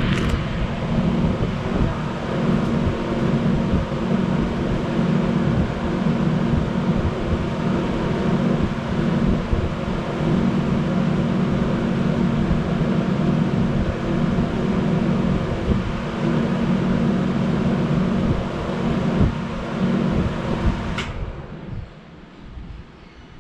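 1984 Carrier 'brown round' 2.5-ton air conditioner condensing unit running with a steady hum and fan noise, then shutting off about 21 seconds in, the sound dropping away sharply as it winds down.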